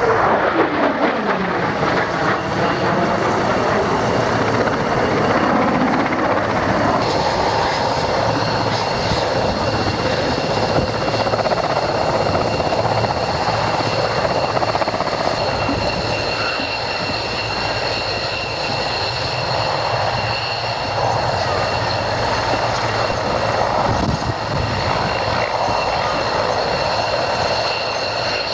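Aircraft engine noise. In the first few seconds the pitch falls as an aircraft passes, then a steady high whine joins a constant engine noise from about seven seconds in.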